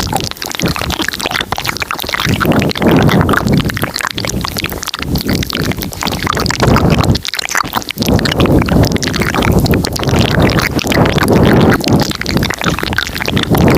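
Layered ASMR mouth sounds recorded very close to the microphone: dense clicking over swells of low, wet-sounding noise that rise and fall every second or two.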